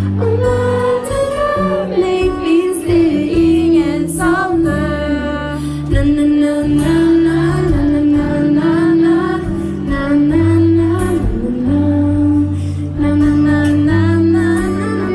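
Pop band playing live, with a lead vocal over steady bass notes.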